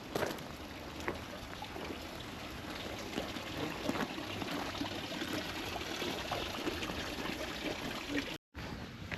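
Steady rush of running water from a stream, with a brief complete drop-out near the end.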